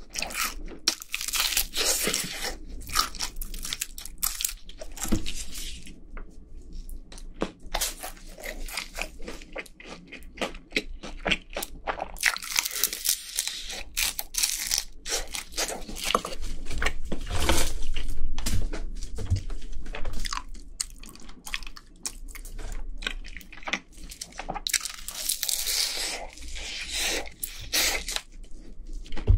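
Crispy fried chicken being bitten and chewed: dense, irregular crunches of the fried coating with wet chewing between them.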